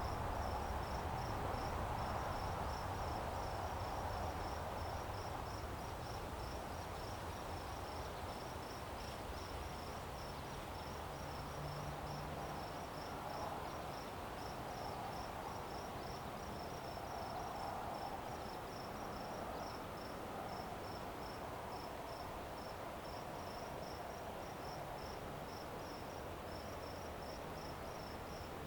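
A cricket chirping steadily: short high chirps repeating at about two to three a second without a break. Under it lies a steady low rumble and hiss of background noise.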